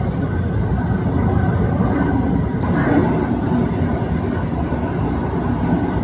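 Passenger train running on the rails: a steady rumble.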